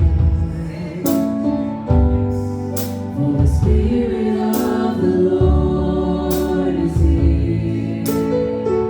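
A group sings gospel music in a church worship medley over a band accompaniment with a strong bass.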